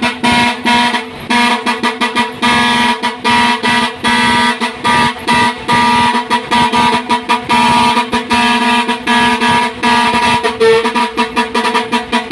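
Truck air horns blowing a held, pitched tone that is chopped into rapid stuttering blasts many times a second: a horn greeting between trucks.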